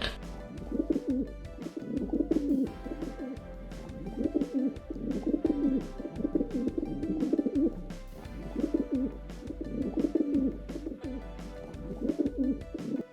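Pigeon cooing: a low call repeated in phrases of about a second each, over background music.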